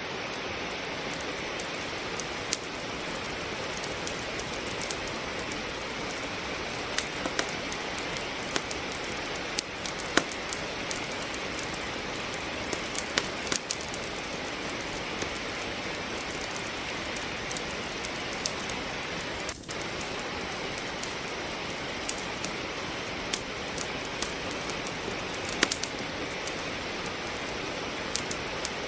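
Steady rain hiss with wood crackling and popping in a fireplace: sharp, irregular snaps scattered over the rain.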